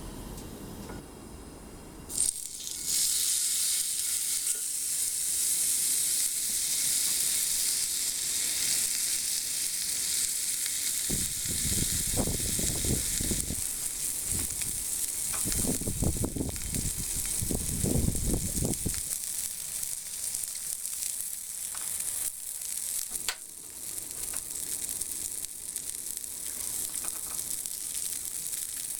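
Steak sizzling on a hot forged iron plate, the frying hiss starting suddenly about two seconds in and running steadily on, with some low rumbling in the middle.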